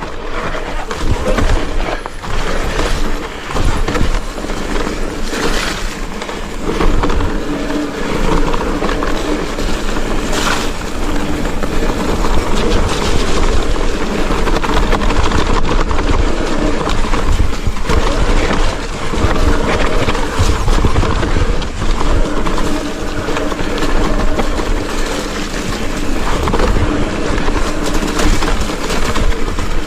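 Mountain bike being ridden over a rough, muddy trail: steady tyre and rattle noise with scattered knocks, and low rumble from wind on the microphone.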